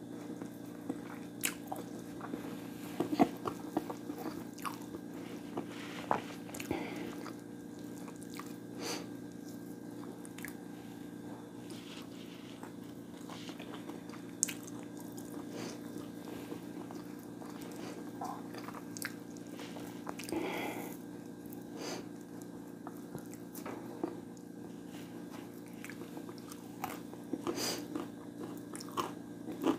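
Close-miked eating: chewing and biting with scattered short, crisp clicks and crunches, over a steady low hum.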